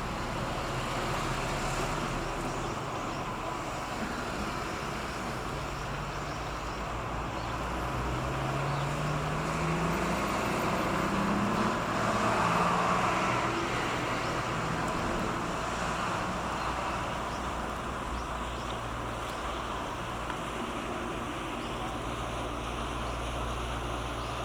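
Steady low diesel drone of a pusher tug driving its barge through a narrow strait, with a rising engine note and a swell of louder noise about halfway through.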